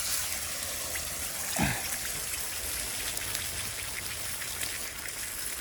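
Egg frying in hot oil in a pan: a steady sizzle with small crackles, and a brief falling sound about one and a half seconds in.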